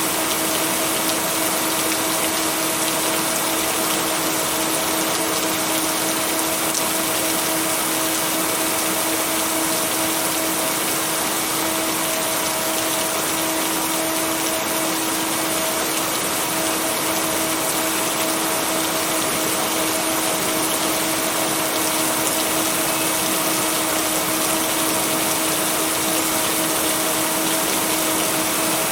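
Steady, even rain noise with a constant low tone and its octave mixed in, typical of a binaural-beat layer. No thunder or other change.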